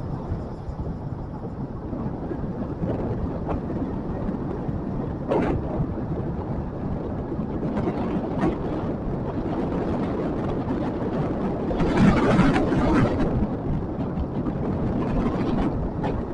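Motorcycle running while being ridden, with a steady low rumble of engine and road noise, a few light knocks, and a louder rush about twelve seconds in.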